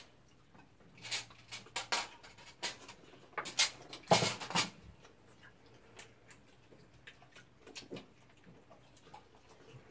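Close-up eating sounds: crispy fried chicken being bitten into and chewed, with scattered short clicks and crunches. The loudest crunches come about four seconds in.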